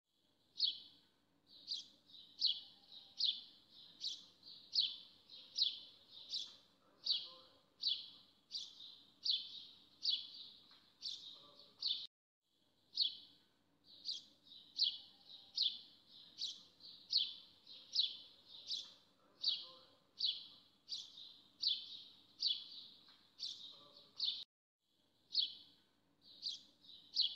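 A bird chirping over and over, a short sharp call a little more than once a second. The chirping cuts off abruptly twice and restarts, like a looped recording.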